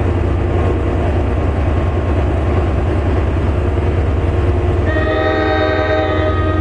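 A commuter train running past with a steady low rumble; about five seconds in its horn sounds a multi-note chord for about a second and a half.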